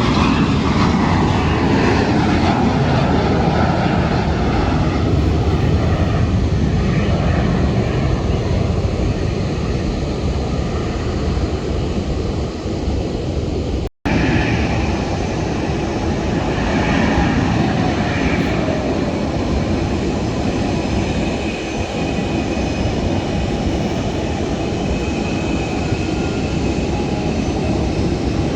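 Jet airliner's engines roaring loudly as it passes, the engine whine falling in pitch over the first several seconds. The sound cuts out for an instant about halfway, then the steady jet roar goes on, with a fainter falling whine a few seconds later.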